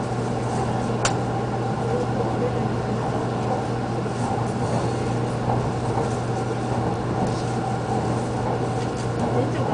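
Steady running noise heard inside a Shinkansen-type electric train car in motion: an even rumble with a low steady hum, and a single sharp click about a second in.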